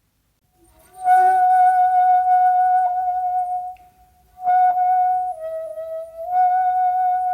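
Solo shakuhachi, the Japanese end-blown bamboo flute, playing long held notes on nearly one pitch with breathy attacks. The first note enters about a second in, and after a short breath a second phrase begins, bending slightly lower in pitch before rising back.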